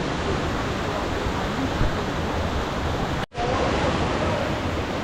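Steady roar of rushing water, cut off briefly about three seconds in before resuming.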